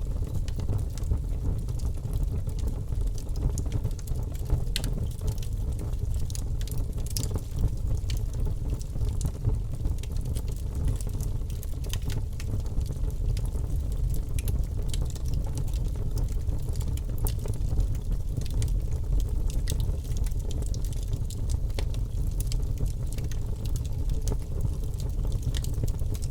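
Wood fire crackling, with many small scattered pops and snaps over a steady low rumble.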